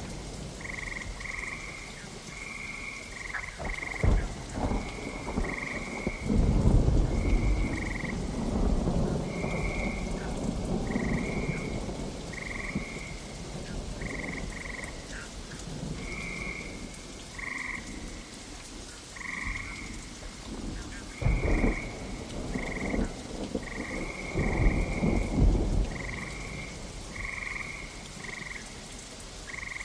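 Steady rain with rumbles of thunder rolling in several times, the loudest moments. Frogs croak over the rain throughout in short, repeated calls about once or twice a second.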